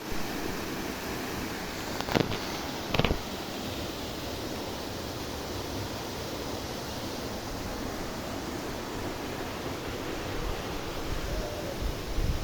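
Waterfall rushing with a steady, even roar of falling water. Two short knocks stand out about two and three seconds in.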